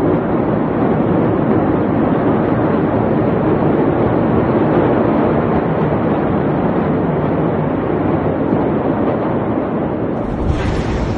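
Steady, loud rushing noise with no distinct knocks or tones. About ten seconds in it changes abruptly, turning brighter.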